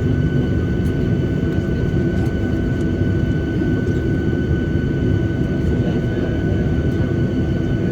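Steady aircraft noise inside a Boeing 737-800's cabin at low power near the stand: a low rumble with a steady high whine that neither rises nor falls.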